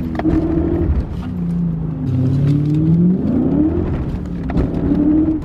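BMW E39 M5's 4.9-litre S62 V8 pulling hard under acceleration, heard from inside the cabin: the engine note climbs in pitch, falls back and climbs again a couple of times as the revs rise and drop through the gears.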